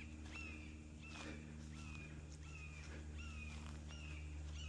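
Faint animal call: a short, slightly falling note repeated steadily about twice a second, over a steady low hum.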